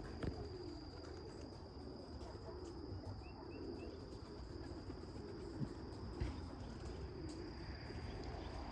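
Outdoor ambience at a pigeon loft: a steady high-pitched insect trill, low wavering pigeon coos, and three quick bird chirps about halfway through.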